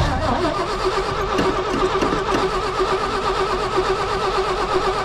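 The starter of a 1971 Chevy C-50 dump truck cranking the engine over steadily. It starts abruptly and holds an even, fast pulsing whine.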